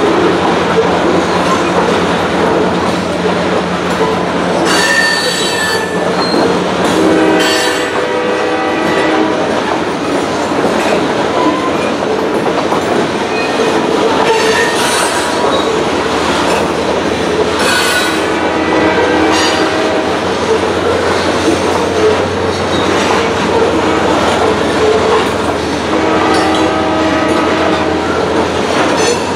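Loaded covered hopper cars of a grain train rolling steadily over the crossing, wheels clattering on the rails. Several high-pitched wheel squeals rise and fade as the cars pass.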